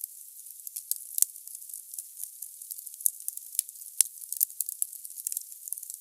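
Wood fire burning in a fireplace: a steady hiss with frequent small crackles of the burning logs, and a few sharper pops about a second in, around three seconds in and at four seconds.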